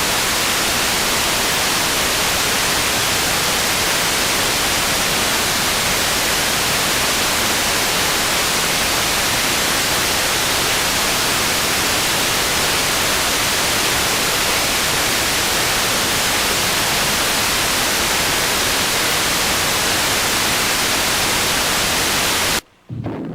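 Steady hiss of static across all pitches, the sound of a lost broadcast signal, cutting off suddenly near the end.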